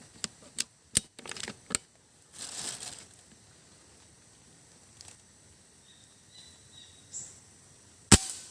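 Sharp handling clicks and knocks, several in the first two seconds, then a short rustle, a few faint ticks, and one loud sharp click near the end.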